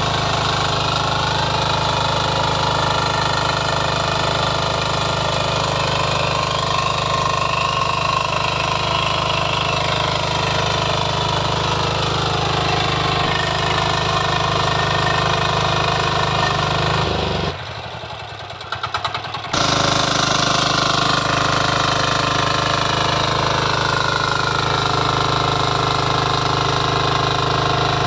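Power weeder's small engine running steadily, with a brief drop in level of about two seconds a little past the middle before it carries on.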